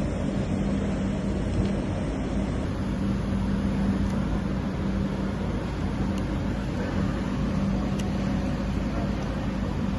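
Steady mechanical rumble with a constant low hum.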